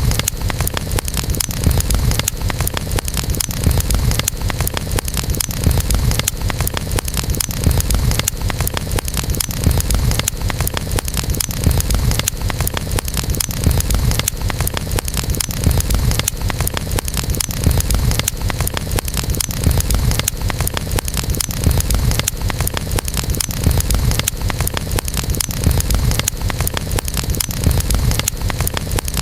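Campfire burning with a steady low roar and dense small crackles and pops from the burning wood.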